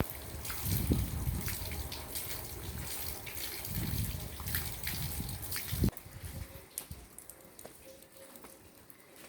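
Rain falling and dripping, with many scattered sharp drop ticks. Low rumbling swells on the microphone come and go during the first six seconds, and then it turns quieter.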